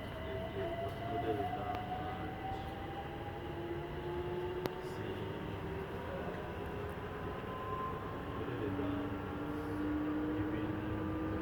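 Electric train accelerating: the traction motors whine in slowly rising tones over a steady rumble of wheels on rails, with one sharp click about halfway through.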